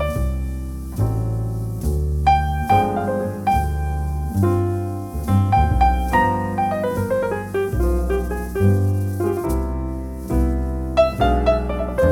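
Jazz piano playing, a melody line over chords and sustained low bass notes that change about once a second.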